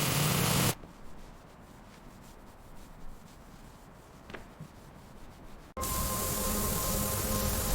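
Abrasive sanding and rust stripping on bare car-body metal: a loud rasping noise that stops abruptly about a second in. After a quieter stretch it starts again near the end, this time with a steady whine from the tool.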